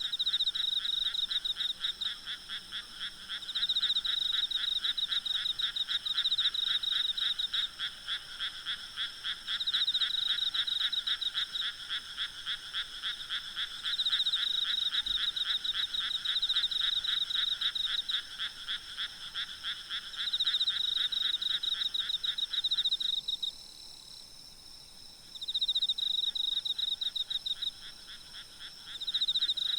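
Night chorus of frogs calling in rapid, pulsing bouts that rise and fall every few seconds, over a steady high insect trill. About three-quarters of the way through, the frog calls drop out for a couple of seconds and then resume.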